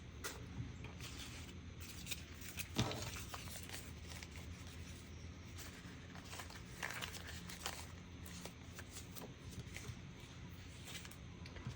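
Paper and art supplies handled at a craft table: scattered soft rustles and small taps over a steady low hum, with one sharper tap about three seconds in.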